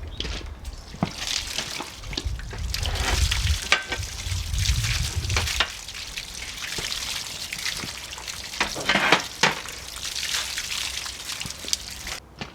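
Metal parts being cleaned with liquid degreaser: wet scrubbing and splashing, with a few knocks of metal, cutting off sharply near the end.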